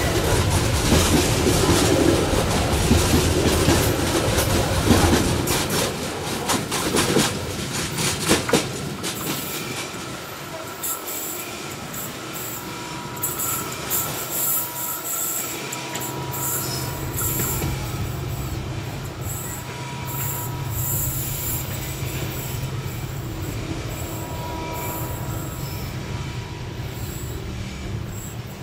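Loaded coal wagons of a long freight train rolling past, a dense clatter of wheels over the rails that is loudest for the first eight or nine seconds, then eases into a quieter steady rolling with a thin wheel squeal.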